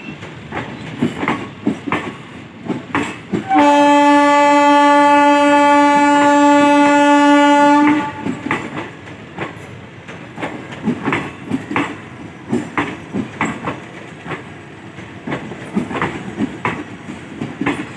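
Express train passing at speed, its wheels clacking steadily over the rail joints. About three and a half seconds in, the locomotive sounds one long, steady horn blast lasting roughly four seconds.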